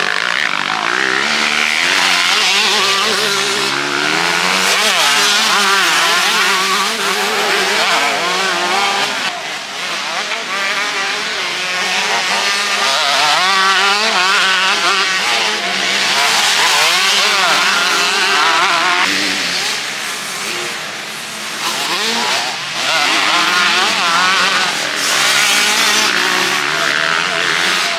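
Motocross bikes racing past, engines revving hard and chopping up and down in pitch as the riders work the throttle, with a brief lull about two-thirds of the way through.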